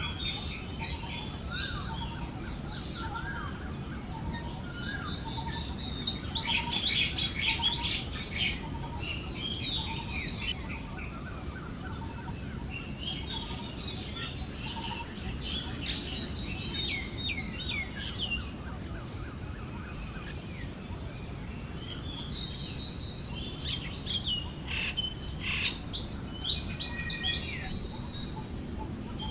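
Forest birds chirping and calling, with busier bursts of rapid chirping about six seconds in and again near the end, and one short lower note repeating about once a second. Beneath them run a steady high insect drone and a soft breeze.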